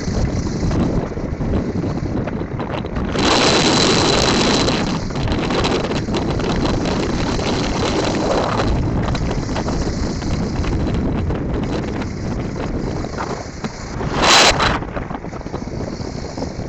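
Wind buffeting the microphone over the running motorcycle and street traffic while riding. It surges louder for about two seconds a few seconds in, and again briefly near the end.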